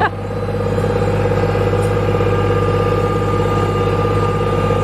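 Tractor engine running at a steady, even speed, heard from on board the ride it is towing.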